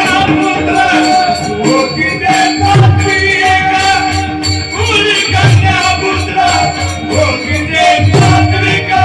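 Instrumental passage of Marathi Warkari bhajan music between sung lines. A held, reedy melody line, likely harmonium, plays over tabla strokes and the steady jingle of small hand cymbals (taal).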